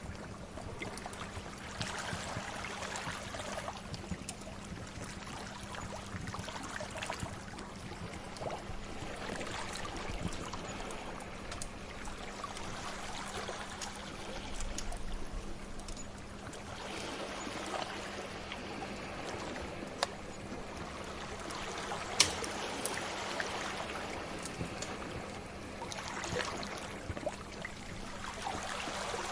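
Sea waves washing in and drawing back, swelling every several seconds, mixed with a crackling fire whose sharp pops stand out now and then, the loudest a little past two-thirds of the way through.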